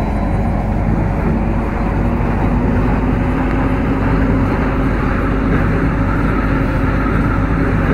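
MTR Kwun Tong line C-Train running, a steady wheel-and-rail rumble with a motor hum that sets in after a couple of seconds.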